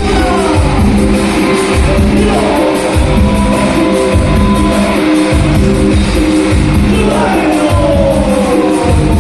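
Live band music with a singer over sustained chords and a steady low drum-and-bass beat.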